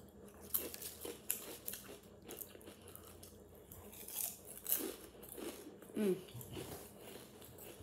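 Close-up crunchy chewing: a person biting and chewing crisp food, with many short crackling crunches. A brief voiced murmur comes about six seconds in.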